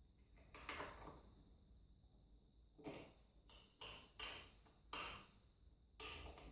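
Faint handling noises: about six short knocks and scrapes spread across a few seconds, over a steady faint high-pitched whine and low hum. No drill motor is running.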